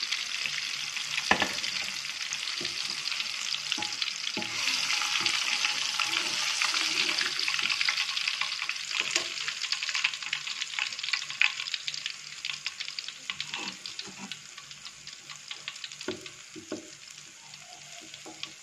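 Unbattered banana pieces deep-frying in hot oil in a wok, a dense crackling sizzle with sharp clicks of a metal spatula against the pan. The sizzle is loudest in the middle and dies down over the last several seconds.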